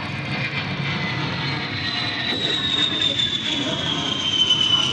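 A-10C Thunderbolt II jet making a low pass, its twin TF34 turbofans whining. The high whine falls steadily in pitch as the sound grows louder.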